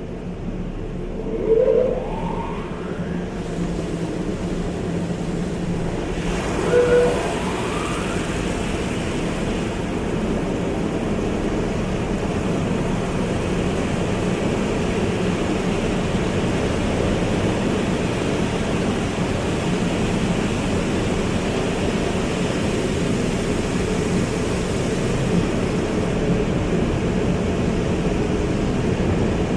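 Automatic car wash running: a steady rush of spraying water and machinery, with two short rising whines, about a second and a half in and again about seven seconds in.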